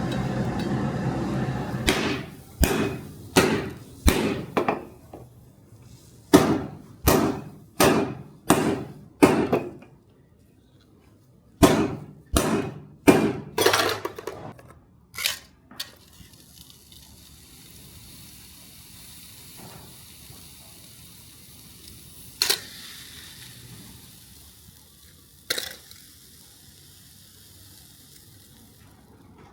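Hammer blows on metal in quick runs of four or five, each ringing briefly, then two lone blows later on. A steady rumble at the start stops just before the first blows.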